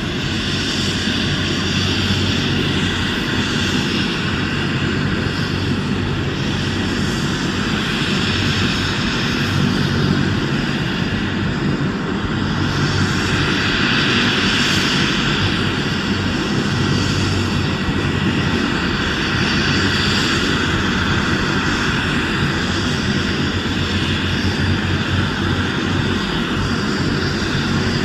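Helicopter running close by, its engine and rotor blades making a loud, steady noise that holds without a break.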